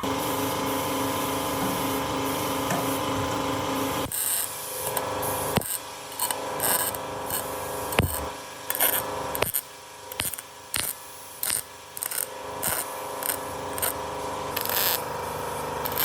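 A power tool runs steadily for about four seconds and then stops. After that come irregular scraping strokes and sharp knocks of hand tool work on metal.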